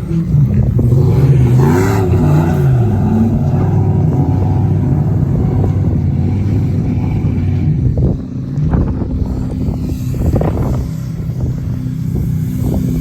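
Car engine revving, its pitch rising and falling repeatedly for the first few seconds, then held at a steadier speed, with a few sharp knocks along the way.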